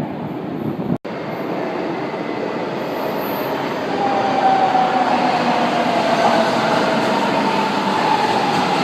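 Metro train running along the track: a steady rumble of wheels on rail that grows louder about four seconds in, with a whine sounding over it. The sound breaks off for an instant about a second in.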